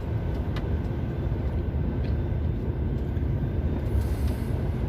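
Steady engine drone and road rumble inside a long-haul truck's cab, driving on a snow-covered road.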